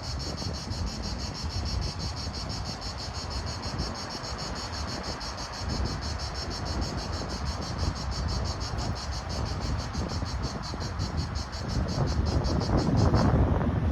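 Cricket-like insect chirping in an even, fast pulse that stops suddenly near the end, over wind rumbling on the microphone that grows stronger in the last couple of seconds.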